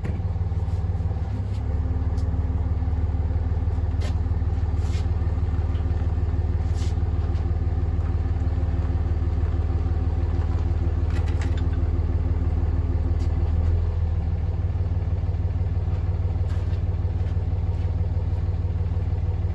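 An engine running steadily at an even, low pitch, with a few faint clicks over it.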